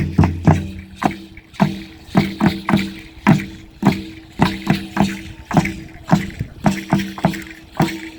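A drum played in a steady dance rhythm, about two to three ringing strikes a second, shifting to a new pattern about a second in.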